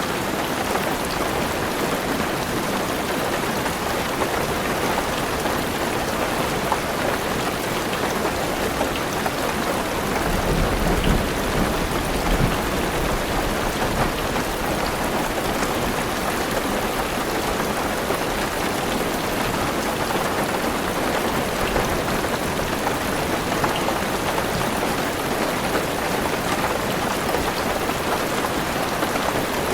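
Heavy rain drumming steadily on a car roof and windows, with a low rumble of thunder swelling for a few seconds about a third of the way through.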